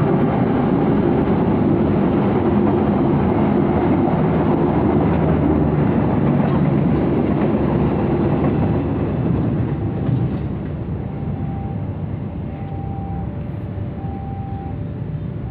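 A train passing close by: a loud, steady rumble of wheels and cars that fades away from about ten seconds in, with short repeated tones near the end.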